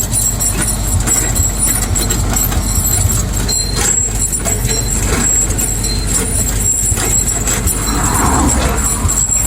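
Tractor running steadily during a ride, a constant low rumble with scattered rattling and knocking.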